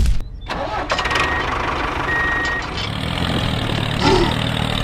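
Engine starting, then settling into a steady idle about three seconds in.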